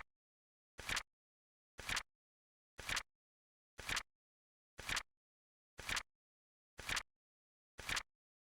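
Flip clock timer sound effect: a short, sharp flip click once a second, each in two quick steps, with dead silence between.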